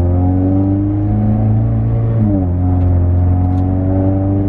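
Mazda 3's four-cylinder engine running at cold-start high idle through a Corksport midpipe and Borla axle-back exhaust, heard from inside the car: a steady deep drone that drops in pitch about two seconds in as the idle speed comes down.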